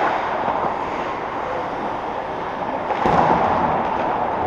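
Steady rink game noise, a wash of crowd and play sounds, with one sharp thud about three seconds in, like a puck or ball hitting the boards.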